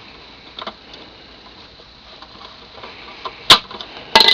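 A few sharp clicks and knocks over low hiss: faint ones about a second in, a loud single click about three and a half seconds in, then a quick cluster of clicks near the end.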